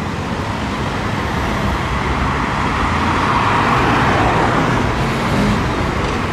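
Car engines running amid steady traffic-like noise, growing somewhat louder about three seconds in.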